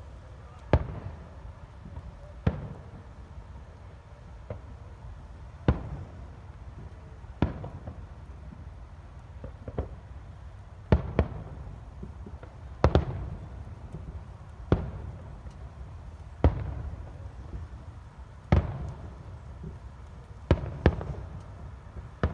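Aerial fireworks shells bursting at a distance: about a dozen sharp booms, roughly one every two seconds and some in quick pairs, each followed by a low rolling rumble.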